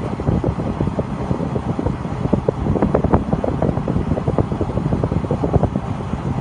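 Truck-mounted rotary table water well drilling rig running, a steady engine noise with dense, irregular rattling and knocking.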